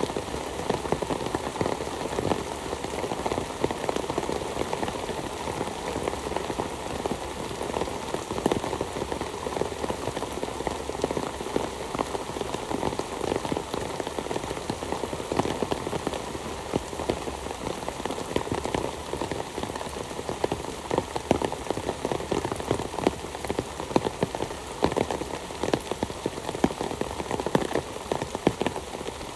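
Heavy downpour falling steadily: a constant hiss of rain with many sharp individual drop strikes close by.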